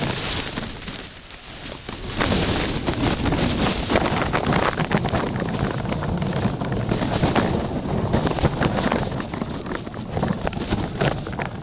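Wind buffeting an outdoor microphone: a steady low rumbling noise with gusts, growing louder about two seconds in.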